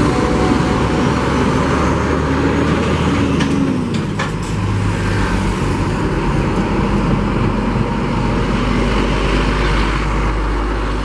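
Heavy truck engine running under way, with steady road and wind noise; the engine's pitch drops about three and a half seconds in, with a few knocks around then.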